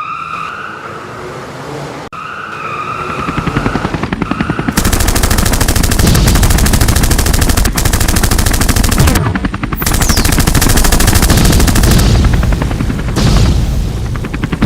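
Cartoon battle sound effects: a wavering tone for the first few seconds, then loud, very rapid machine-gun-like rattling from about five seconds in, broken twice briefly, with a falling whistle near the middle.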